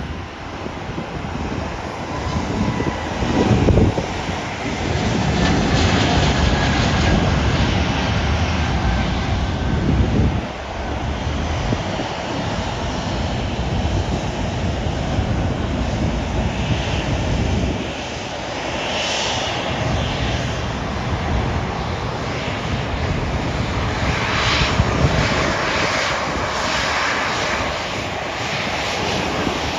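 Airliner's engines running loud and steady: a dense rumble with a hissing top end, the hiss growing stronger in the last few seconds.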